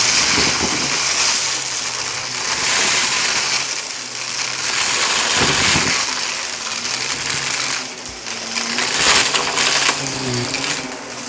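Shark vacuum cleaner running over carpet, its motor humming under a loud suction hiss that swells and eases with quick strokes, with crunchy grit rattling up into the machine.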